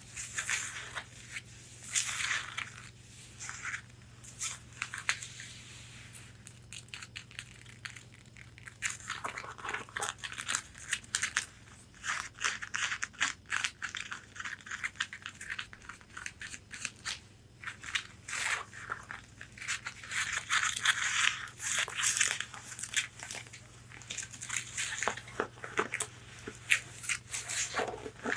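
Long fingernails tapping and scratching on a corset bodice: quick, irregular clicks mixed with raspy scratching strokes on the fabric, coming in busy bursts with short lulls.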